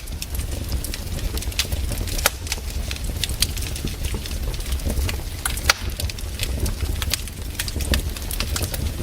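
Wood campfire crackling, with irregular sharp pops and snaps, two of them louder than the rest about two seconds in and just before six seconds, over a steady low rumble.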